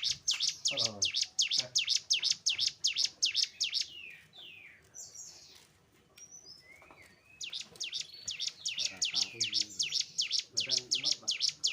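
Cigun (ciblek gunung, a mountain prinia) singing a fast string of sharp, high chirps at about four a second, breaking off for a few seconds in the middle with a few softer sweeping notes, then starting up again.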